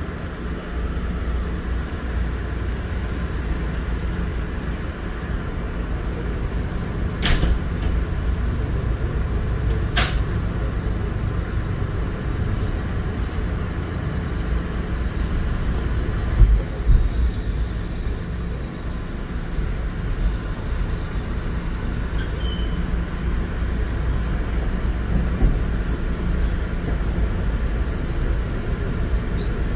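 Metro-North commuter train running, heard from inside the passenger car: a steady low rumble of wheels and motors on the track, with two sharp clicks about seven and ten seconds in and a faint high squeal about halfway through.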